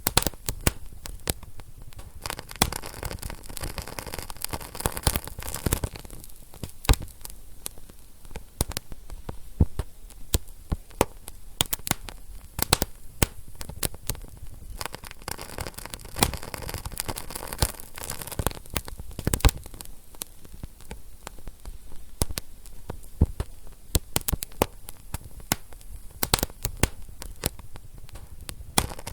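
Wood fire burning in a fireplace, crackling and popping: irregular sharp pops, many a second, over a low steady rush of flame.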